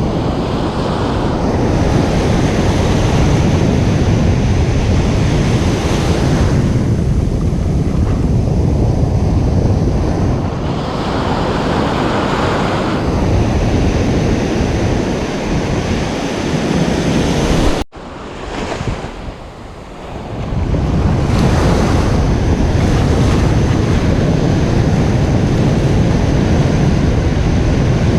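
Ocean waves breaking and washing up a beach in loud, rolling surges every few seconds, with wind rumbling on the microphone. A little over halfway through, the sound drops off abruptly for a couple of seconds, then swells back.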